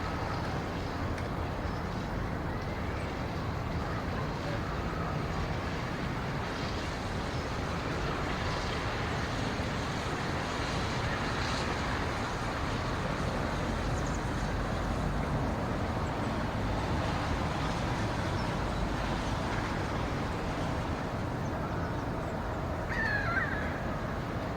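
Steady rumbling background noise without any clear pitch, with a short high chirp near the end.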